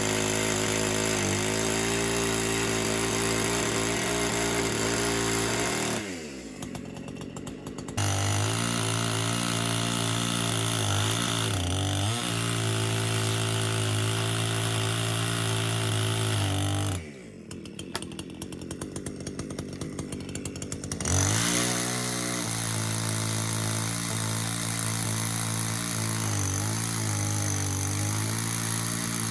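Chainsaw running at full throttle, twice dropping back to a quieter idle, about six and seventeen seconds in, before revving up again.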